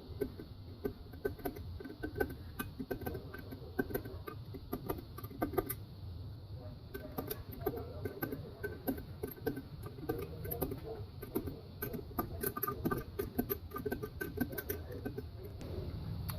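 Rapid, irregular small clicks and taps as new valve stem seals are fitted and pushed down onto the valve guides of a Toyota 1ZZ cylinder head.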